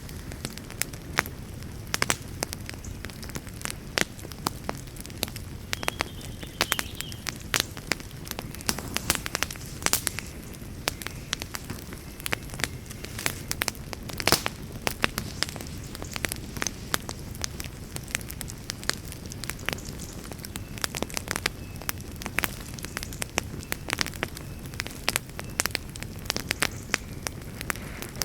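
Wood fire burning in a fireplace: a steady low rumble of flame under irregular crackles and sharp pops, a few louder than the rest.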